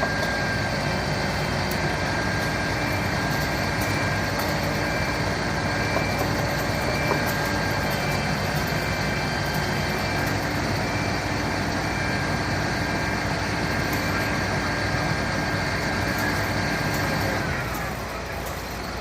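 Fire truck engine running steadily, with a steady high whine over it. Near the end the whine slides down in pitch and the sound drops a little quieter.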